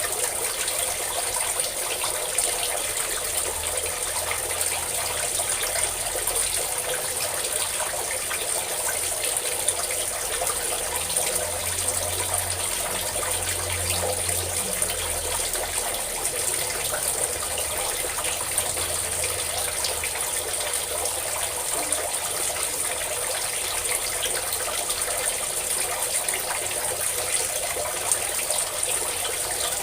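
Steady stream of water pouring and splashing down, unbroken throughout.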